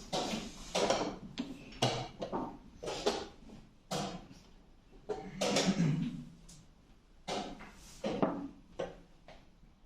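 Chess pieces knocked down onto a board and shuffled in quick blitz play: a dozen or so irregular wooden clacks and knocks, several a second at the busiest points, with short scraping slides between some of them.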